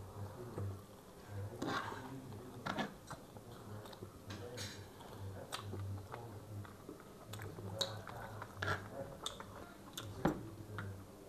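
Close-miked chewing and lip-smacking of people eating noodles and chicken, with many small scattered clicks, over a faint low hum that comes and goes.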